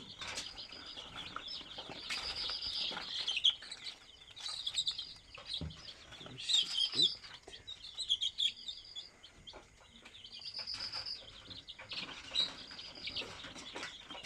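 A flock of young native chicken chicks peeping: many short, high calls, some held briefly and some falling, coming in overlapping clusters, with a few soft clicks among them.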